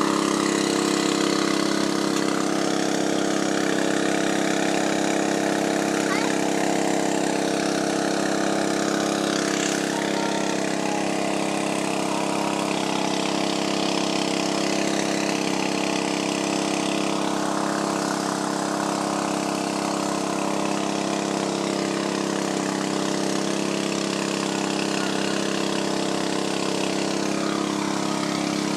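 Alkon portable fire-fighting pump engine running steadily at a constant speed.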